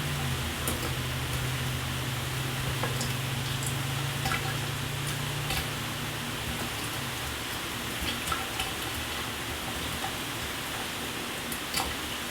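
Shower water spraying in a steady hiss, with scattered sharp drip-like ticks. A low hum underneath fades out a little past halfway.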